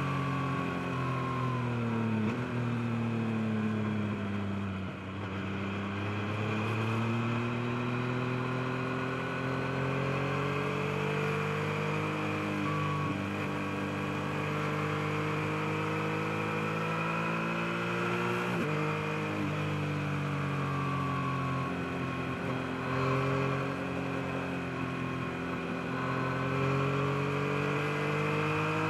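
Yamaha MT-09's three-cylinder engine under way. The engine note falls over the first few seconds, then climbs slowly for the rest, with a quick break and shift in pitch about two-thirds in.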